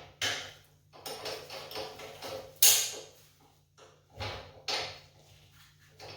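Wrenches and metal parts clanking and scraping against the generator's steel frame as the wheel axles are bolted on, in irregular knocks with one sharp clank about two and a half seconds in.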